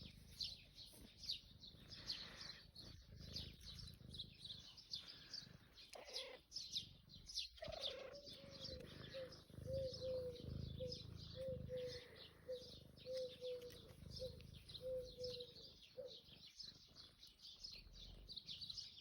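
Songbirds chirping with many quick, high notes throughout. From about eight seconds in to about sixteen, a lower call repeats in short, evenly spaced notes, about two a second.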